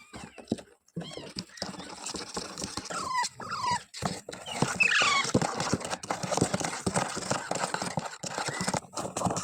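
Pet parrots calling: a few short squawks falling in pitch, amid steady scratching and rustling.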